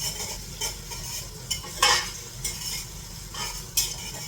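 Food frying in a pan with a steady sizzle while it is stirred, the utensil scraping and knocking against the pan a few times, loudest about two seconds in.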